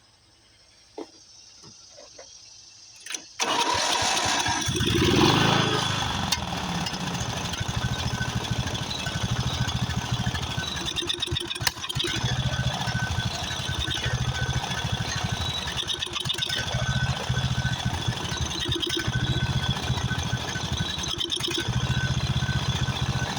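A 13.5 hp Briggs & Stratton overhead-valve engine on a Craftsman riding mower starts on its new carburetor about three seconds in and runs. It swells briefly after catching, then keeps running, its low note growing stronger and weaker every couple of seconds.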